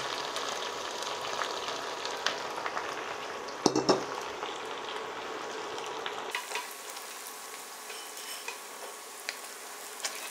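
Loaches and chopped betel leaves frying in hot oil for their second fry: a steady sizzle with crackling pops as the fish are stirred with wooden chopsticks. There is a brief louder sound just before four seconds in, and the sizzle is quieter from about six seconds on.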